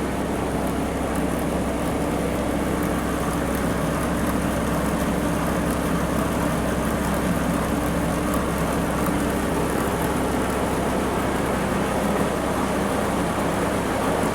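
Ford 1210 compact tractor's three-cylinder diesel running steadily, driving its PTO snowblower. The blower runs smooth and quiet after repairs.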